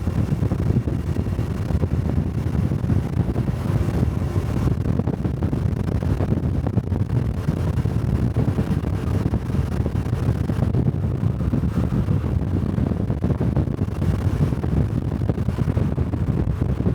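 Honda Cub-series 125 cc single-cylinder motorcycle engine running steadily while riding, mixed with wind buffeting on the microphone.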